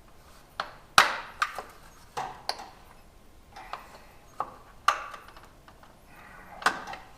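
Irregular sharp clicks and taps, about nine of them, the loudest about a second in: a small flathead screwdriver working the metal windshield-trim retaining clips of a 1976 Plymouth Gran Fury wagon, pushing on their tabs to release them.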